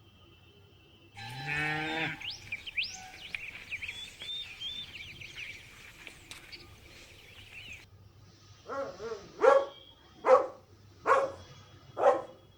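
A sequence of animal calls: a short low call rising in pitch just after a second in, then bird-like chirping for several seconds. From about two-thirds of the way through comes a run of short, loud calls repeated about every 0.8 seconds.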